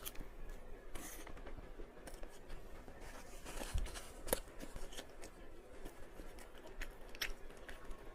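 Quiet eating sounds: scattered soft clicks and light crunches of chewing, with small handling noises.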